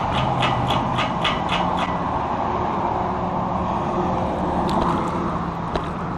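Steady road and wind noise from riding a bicycle in city traffic, with a rapid regular ticking, about four a second, that stops about two seconds in.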